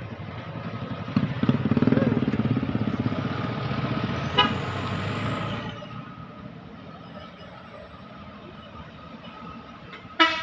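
A heavy truck's engine running loudly as it passes for a few seconds, then fading. Near the end comes a short, loud vehicle horn toot.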